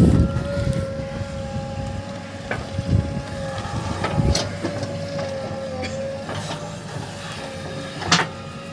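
Heavy diesel machinery running with a steady whine over a low rumble, broken by a few sharp metallic knocks, the loudest of them near the end.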